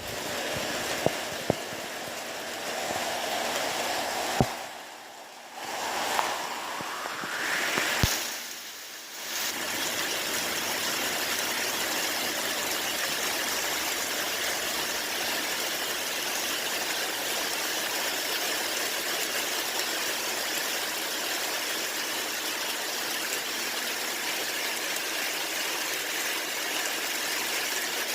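Steady rain falling, an even hiss of water. Over the first several seconds the sound breaks off and returns a few times, with some sharp clicks and a short rising tone, before the rain settles into a constant hiss.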